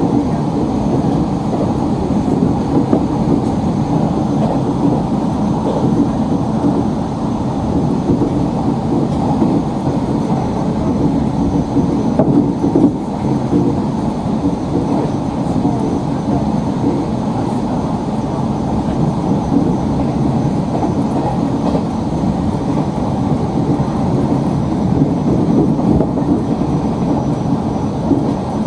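JR 115 series 1000 subseries electric multiple unit running at speed, heard from inside the front car: a steady rumble of wheels on rail and running gear.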